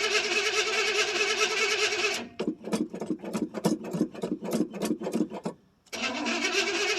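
1979 Chevrolet C10's 305 V8 being cranked on the starter after sitting about a month: steady cranking for about two seconds, then a few seconds of uneven chugging pulses, about four a second, a short pause, and cranking again near the end.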